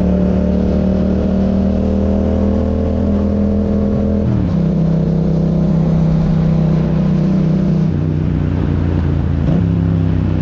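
Yamaha MT-07's parallel-twin engine running through an Akrapovič exhaust at steady revs. Its note steps down in pitch about four seconds in and again about eight seconds in, then rises a little shortly before the end.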